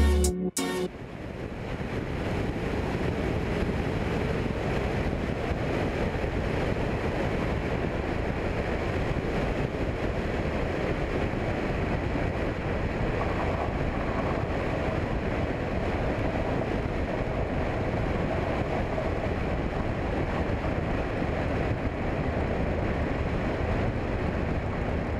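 Steady engine and airflow noise inside the cabin of a Cessna 172, a constant rush without clear tones, fading in over the first second or two.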